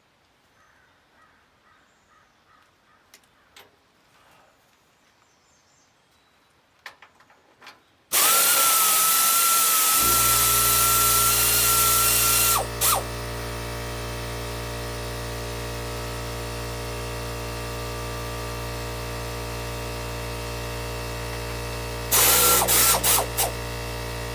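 A few faint clicks, then at about eight seconds a loud air blast with a steady whistle, lasting about four seconds. Two seconds in, a motor starts with a steady hum and keeps running after the blast stops, as an air compressor refilling does. The blast comes again briefly near the end.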